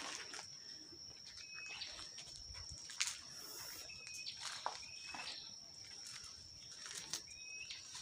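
A bird's short chirping call, repeated every second or two, over a steady high-pitched whine, with a few sharp clicks.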